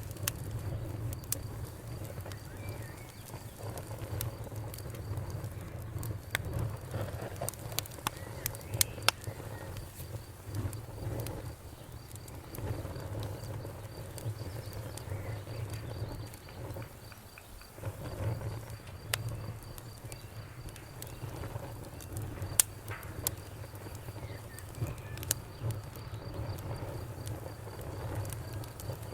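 Wood fire burning in a fireplace: a steady low rumble of flames with irregular sharp crackles and pops, the loudest about 9 and 22 seconds in.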